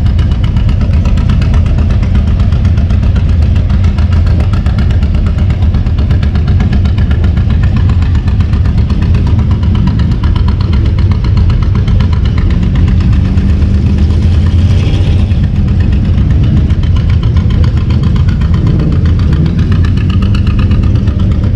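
Engine of a classic car or truck running steadily with a low rumble.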